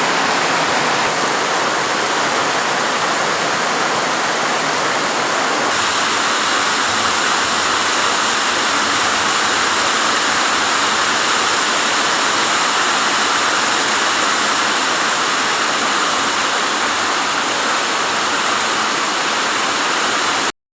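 Heavy rain falling in a steady, loud hiss, a little fuller from about six seconds in.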